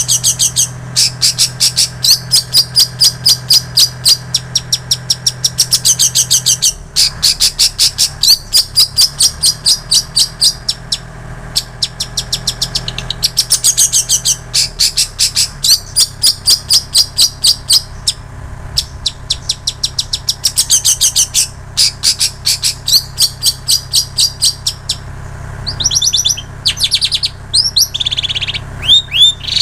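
Long-tailed shrike singing, its song filled with phrases copied from prinias and canaries: fast runs of high, repeated chattering notes in bursts of a second or two with short breaks, then a few sliding whistled notes near the end.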